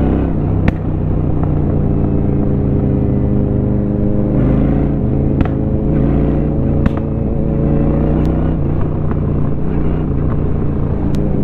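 Honda Shadow 750 V-twin running at a steady cruise through a Rinehart aftermarket exhaust, heard from the rider's helmet. A few sharp clicks cut through the engine note.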